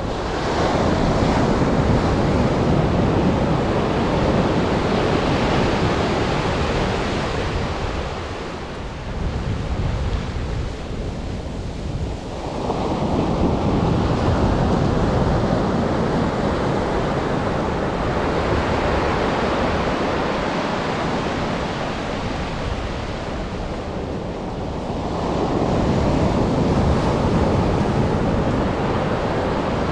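Atlantic surf: waves breaking and washing up the beach, the rush swelling three times, with quieter lulls between. Wind buffets the microphone.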